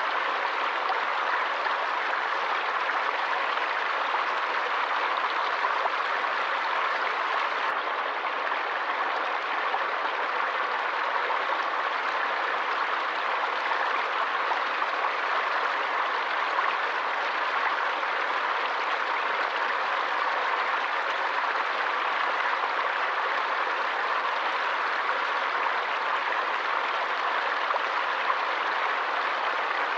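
Water of a forest stream rushing steadily, an even unbroken hiss.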